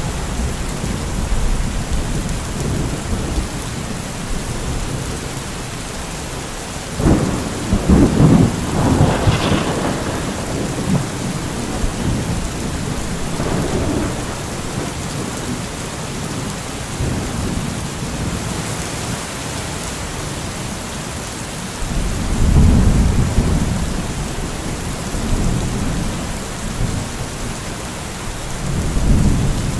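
Steady heavy rain with rolling thunder: a loud rumble with a sharper crack about 7 to 10 seconds in, another long rumble a little past two-thirds of the way through, and a third near the end.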